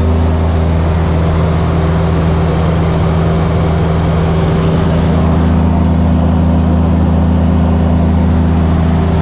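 Saab 340's twin turboprops running, a loud steady propeller drone with several constant low tones over a broad rush of noise; one mid tone drops out early and returns about halfway through.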